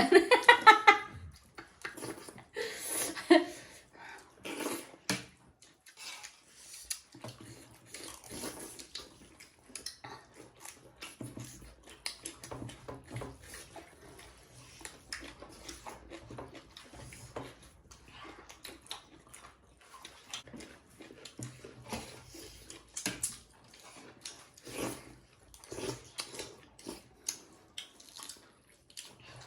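Eating sounds: irregular chewing and soft wet squelches of rice and buffalo-meat gravy, with light clinks against a plate now and then.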